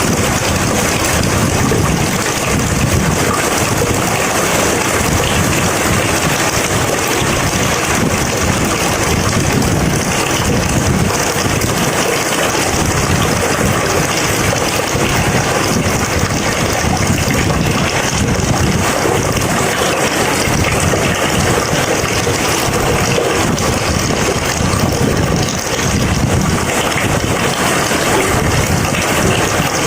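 Heavy rain falling steadily during a thunderstorm, a constant hiss with a shifting low rumble underneath.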